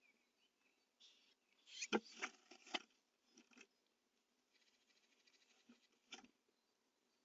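Blue tit moving about inside a wooden nest box: scratching and knocking of its feet on the wood. The loudest knocks come about two seconds in, followed by a spell of fast faint ticking and one more knock near the end.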